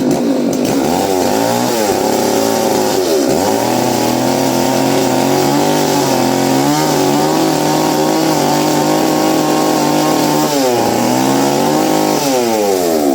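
Chainsaw engine running at high revs, its pitch dipping and recovering several times and falling away near the end.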